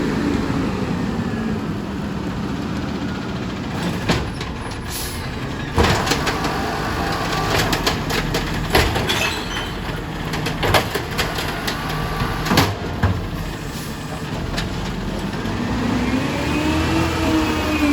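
Garbage truck on a recycling route, its engine revving up and falling back near the start and again near the end, with a run of bangs and clatters in between.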